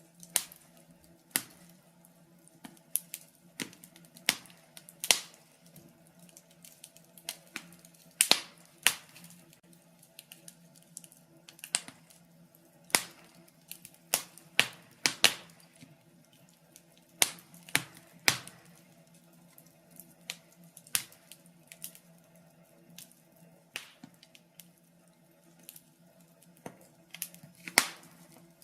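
Wood fire burning in a fireplace, crackling with irregular sharp pops and snaps of varying loudness over a faint steady low hum.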